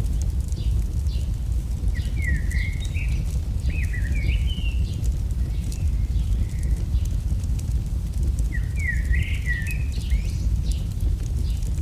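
AI-generated campfire ambience: fire crackling in scattered sharp pops over a steady low rumble. A bird sings short warbling phrases about two, four and nine seconds in.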